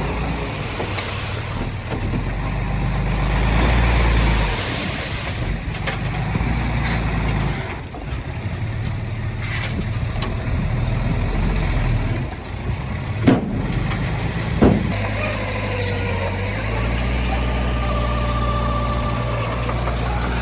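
Heavy diesel machinery engine running at work, its low rumble swelling and easing. Two sharp metallic knocks come about a second and a half apart, past the middle.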